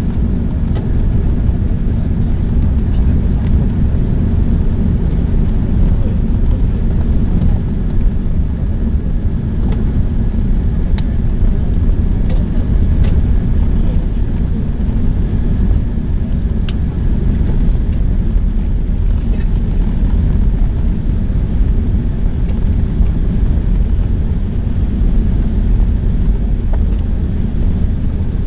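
Steady, low rumbling engine and air noise inside the cabin of an Airbus A380, heard from a window seat on the upper deck, with a few faint ticks.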